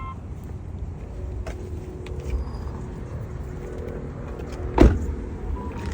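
A newly cut key being tried in a car's lock: a few light clicks and one loud clunk near the end, over a steady low rumble.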